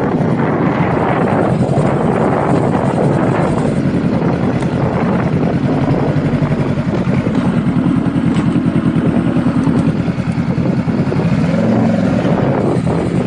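Honda Rebel motorcycle engine running steadily while the bike is ridden, its firing pulses coming through as an even throb.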